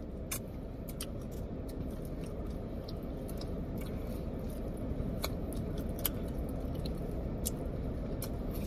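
Chewing chicken wings: scattered small sharp mouth clicks and smacks over a steady low hum.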